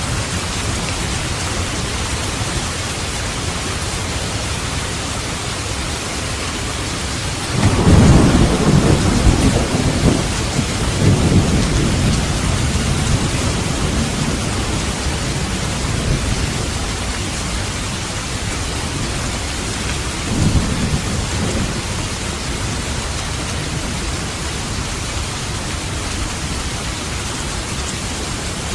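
Steady heavy rain with a roll of thunder that breaks in suddenly about a quarter of the way through and rumbles on for several seconds, followed by a fainter second rumble later.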